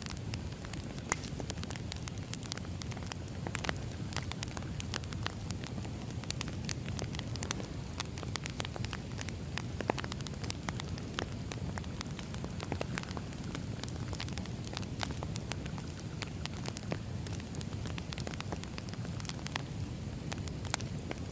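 Wood fire burning, crackling with many sharp, irregular pops over a low steady rush.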